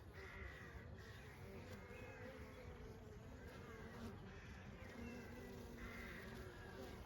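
Honey bees buzzing in a steady hum. A short, arched call recurs in the background about every two seconds.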